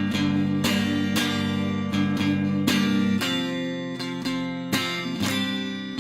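Acoustic guitar strummed, chords ringing in a steady rhythm of about two strokes a second.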